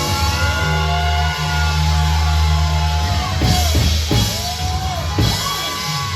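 Loud live church praise music: drums and a deep, steady bass, with long sliding high notes rising and falling over the top.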